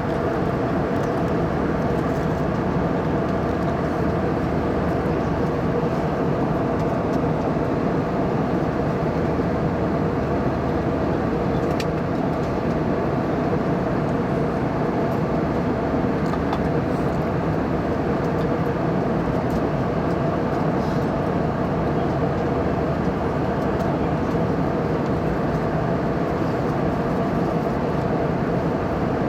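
Steady jet airliner cabin noise in flight, heard inside the cabin: an even rush of engine and airflow with a few faint steady hum tones underneath.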